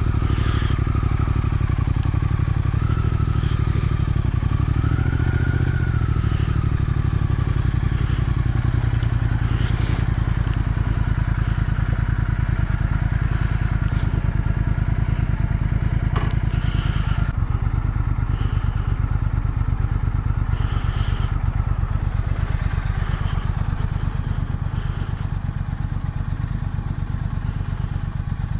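Motorcycle engine running at a steady speed, with a few short clicks and knocks along the way.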